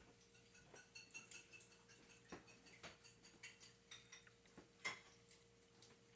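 Near silence: a ceiling fan coasting to a stop after being switched off, making faint, irregular ticks and clicks over a faint steady hum.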